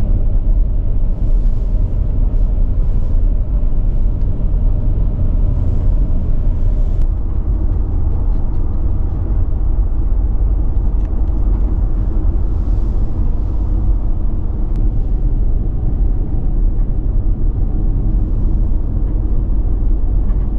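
Loud, steady rush of falling water, heavy in low rumble.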